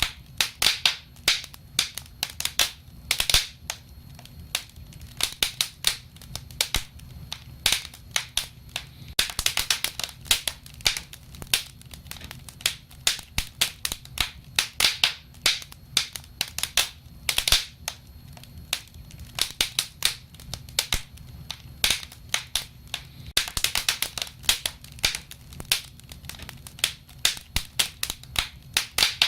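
Wood fire crackling: rapid, irregular pops and snaps, thickening into dense flurries about ten seconds in and again near the end, over a low steady rumble.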